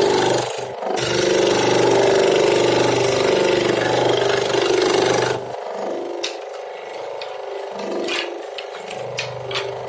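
A power tool running steadily on wood, with a brief break under a second in, then stopping about halfway through. After it stops come lighter scattered clicks and rubbing of handwork on the wood.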